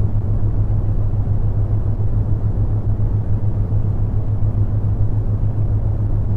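Brown noise: a steady, deep, even rush with most of its weight in the bass, with a low steady tone, the theta-wave beat, running underneath.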